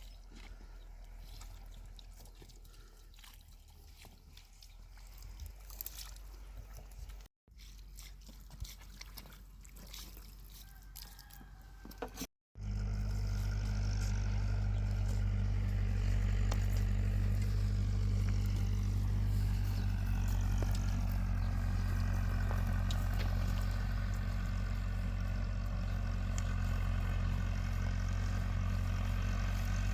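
Quiet scattered clicks and small handling noises, then, after a sudden cut about twelve seconds in, a loud, steady engine running with a deep hum.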